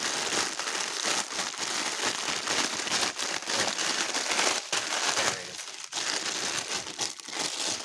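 Plastic parts bags crinkling as small plastic building-brick pieces are poured out, with a dense patter of little clicks and rattles that thins out about five seconds in.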